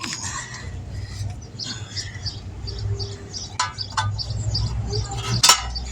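A small bird chirping over and over in short, evenly spaced notes, over a steady low rumble. A few sharp metallic clicks from the tire work break in, the loudest near the end.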